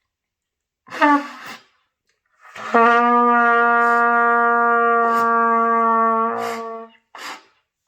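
B♭ trumpet playing a short note, then a single long note held steady at one pitch for about four seconds: the low written C ('do') sustained without breaking off in breath-control practice.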